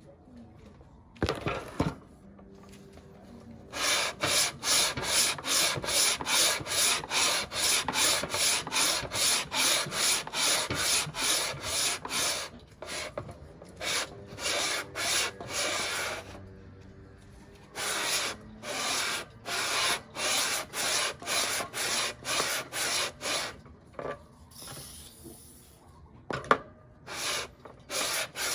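Subaru aluminium cylinder head being slid back and forth on sandpaper laid flat on a tile, rasping at about two strokes a second. The strokes come in several runs with short breaks between them.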